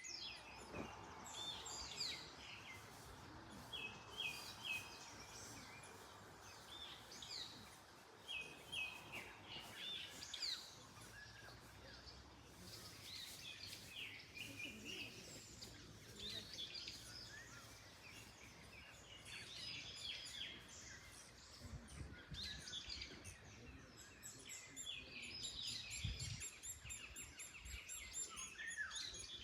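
Several birds chirping and singing, with short repeated calls overlapping throughout and a fast high series of notes near the end. Faint wind rumbles underneath, with a few low gusts in the second half.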